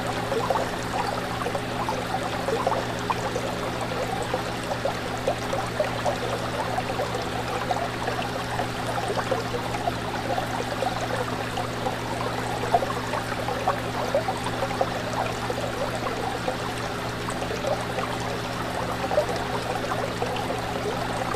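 Aquarium water trickling and bubbling continuously over a steady low hum.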